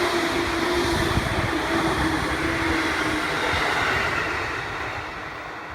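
Seibu 2000 series electric train running by: the steady rumble of wheels on rail, with a steady hum under it that drops out about three seconds in. The noise fades away over the last second or two.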